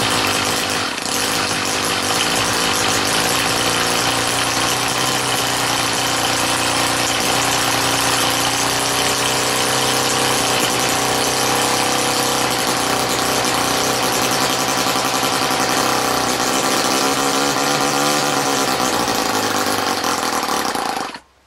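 OS Wankel .30 rotary model glow engine running steadily on its first run, its pitch wandering a little, then cutting out suddenly about a second before the end; the owner wonders whether he set the fuel too lean.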